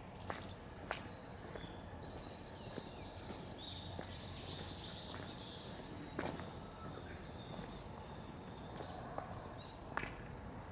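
Small birds chirping and chattering in the morning, with two sharp calls that sweep down in pitch, about six seconds in and near the end. Faint footsteps are heard over a quiet outdoor background.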